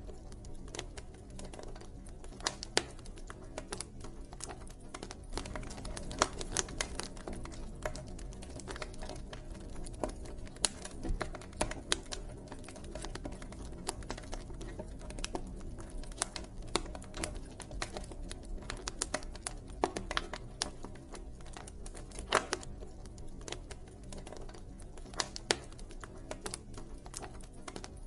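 Wood fire burning, crackling steadily with irregular sharp pops and snaps over a low rumble of the flames.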